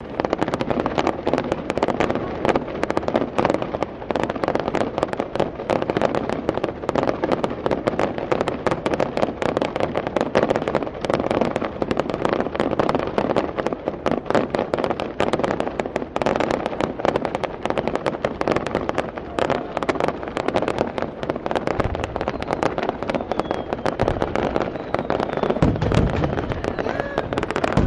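Aerial fireworks display of Japanese shells: a dense, continuous crackling of many small bursts, with a few deeper booms in the last several seconds.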